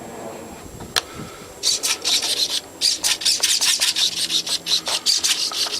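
A single click, then from about a second and a half in a quick run of scratchy, rasping rustles, several per second with brief pauses.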